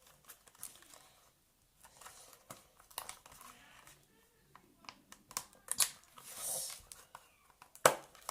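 Homemade clear glitter slime being handled in its plastic container: scattered sticky crackles and clicks as it is stretched and pulled, with a sharp knock near the end.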